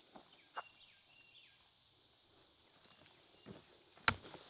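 Insects droning steadily at a high pitch, the summer chorus of cicadas or katydids, with a few faint short chirps in the first second or so. A few light clicks or steps are scattered through it, the sharpest one just before the end.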